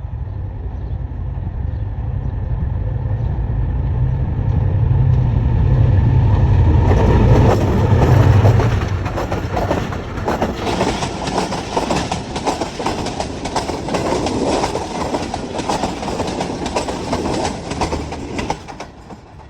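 Passenger train passing close by. The low engine rumble of the diesel locomotive builds to its loudest about seven to eight seconds in. Then the coaches go by with a rapid clatter of wheels over rail joints, which fades away near the end.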